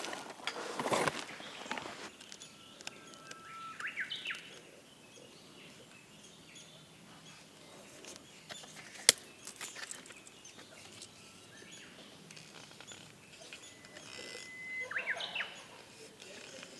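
A bird sings twice, each time a held whistle breaking into a quick run of higher notes, over a quiet outdoor background. There is a brief rustle near the start and one sharp tap about nine seconds in.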